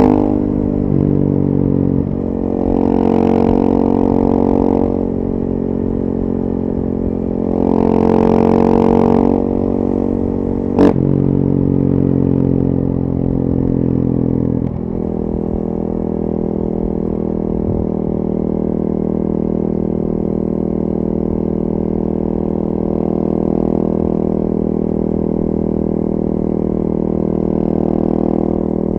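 2014 KTM 450 EXC supermoto's single-cylinder four-stroke engine running through a full FMF 4.1 exhaust, heard from the rider's position. The throttle opens twice in the first ten seconds, bringing louder spells. A single sharp click comes near the middle, then the engine runs on steadily.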